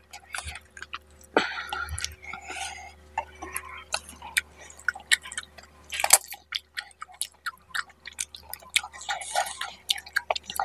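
Close-miked eating sounds: wet chewing and lip smacking as fish head curry and rice are eaten by hand, heard as many irregular sharp wet clicks and smacks.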